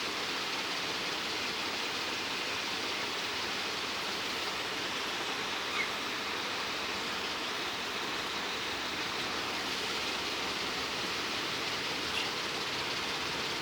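Steady hiss of running water spraying, as from a shower or tap. Two brief faint high-pitched blips come about halfway through and near the end.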